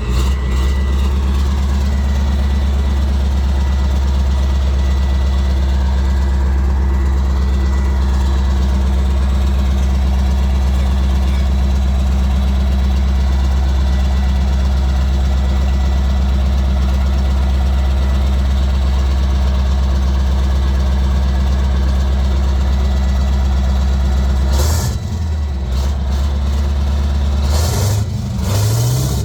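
PzH 2000 self-propelled howitzer's diesel engine held at a steady speed with a deep, even drone for about twenty-five seconds. It then drops back, and is revved up again briefly near the end.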